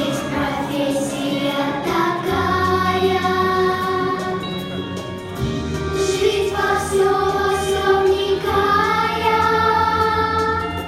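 A children's choir singing long held notes over a backing track in a song.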